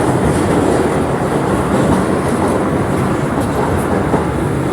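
R211 subway car running between stations, heard from inside the car: a steady rumble of wheels on the rails and car-body noise.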